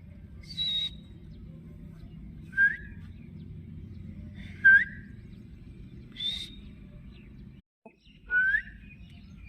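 Pet parrot calling: five short calls about two seconds apart, two brief high squawks and three quick rising whistles, over a steady low hum that cuts out briefly near the end.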